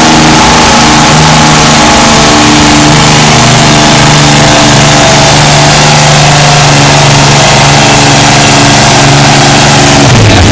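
Competition pulling tractor's engine running hard and very loud with a steady note. Near the end the note drops lower.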